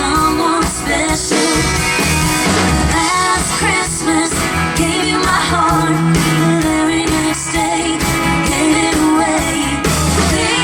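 Live band music: a woman sings a Christmas song through a PA over amplified guitar and bass.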